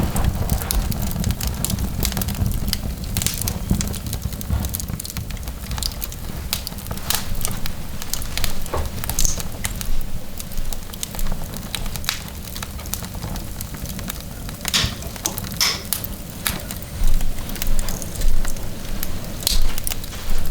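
Fireplace fire burning with a steady low rumble of flame, and irregular crackles and sharp pops from the burning logs, a few louder pops coming near the end.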